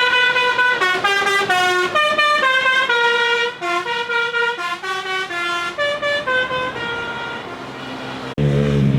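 A musical vehicle horn playing a melody of electronic tones that step up and down note by note, fading as it goes. About 8 seconds in it cuts off abruptly, and a motorcycle engine is heard running.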